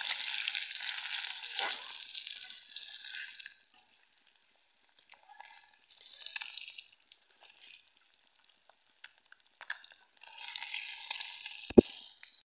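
Boiled eggs sizzling as they fry in hot oil in a pan. The sizzle is strong for the first few seconds, then drops away and returns in softer spells as the eggs are turned. Near the end there is one sharp knock, the metal spatula against the pan.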